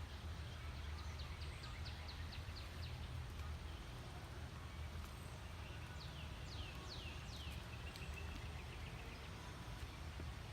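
Wild birds calling over a steady low rumble. First comes a quick run of about ten short high notes at around four a second. A little after the middle there are four loud whistled notes, each sliding downward.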